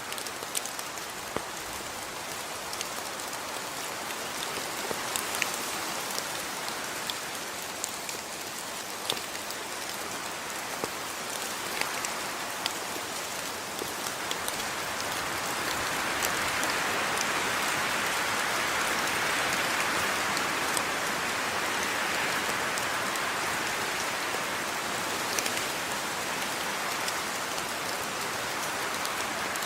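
Steady rain falling, with scattered sharp drip taps over an even hiss. About halfway through, the rain grows louder for several seconds.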